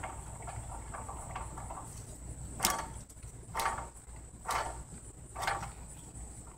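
Rhythmic knocking from a Lexus LS400's wheel, one knock roughly every second, four of them louder, over a low steady rumble. The owner suspects a bad wheel bearing.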